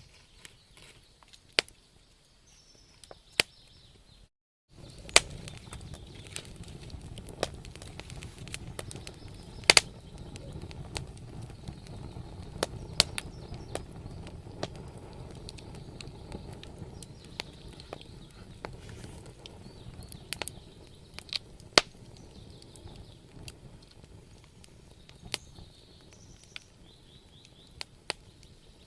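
Wood fire burning in a fireplace, crackling with sharp irregular pops. The sound drops out completely for a moment about four seconds in, then returns with a low rumble of flame under the pops that eases off in the second half.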